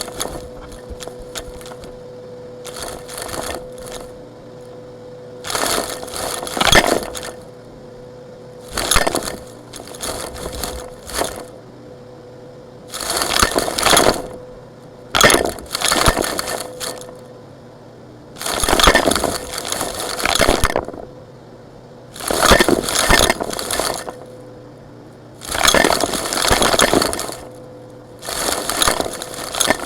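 Brittle, crumbly chunks being crushed and broken apart, giving repeated bursts of crunching and crackling about one to two seconds long, with a faint steady hum underneath.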